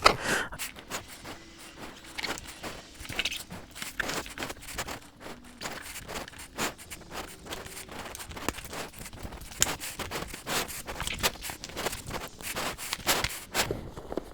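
Irregular scraping, rustling and small clicks of a Rhinowalk soft motorcycle bag and its straps being handled and fitted to the bike.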